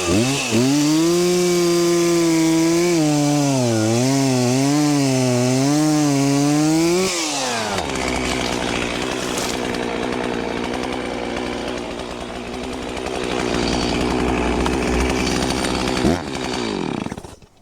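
Stihl 036 Pro two-stroke chainsaw cutting wood at high revs, its pitch wavering under load for about seven seconds. It then drops back to a steady idle, revs briefly near the end and shuts off.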